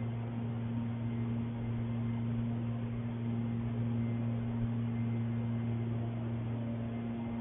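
Steady low hum over a background hiss, with no sudden sounds.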